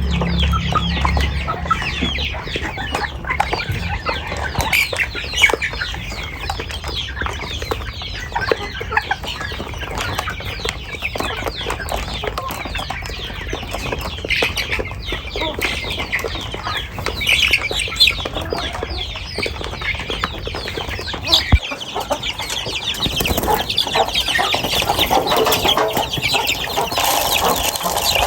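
A flock of hens clucking, with many short calls overlapping, and louder near the end.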